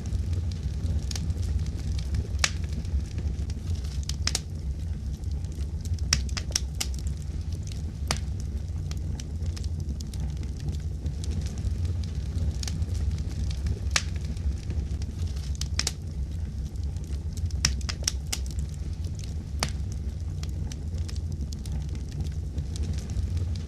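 Wood fire crackling in a fireplace: irregular sharp pops and snaps, a few every second or two, over a steady low rumble.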